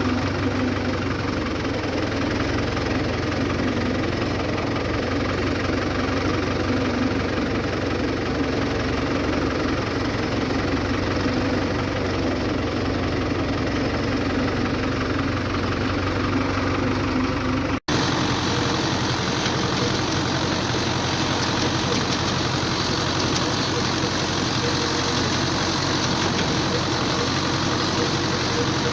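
Four-cylinder diesel engine of a New Holland (Fiat) 640 tractor running steadily. About two-thirds of the way through the sound cuts off for an instant and resumes with a different tone, as a second recording of the same tractor model takes over.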